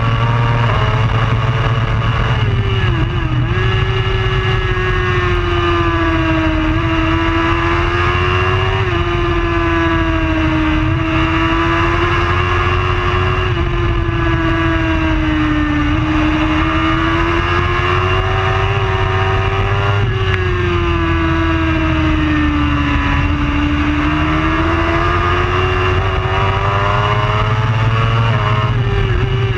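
A racing superbike's engine running hard and continuously, its note slowly climbing and dipping with sudden steps in pitch every few seconds.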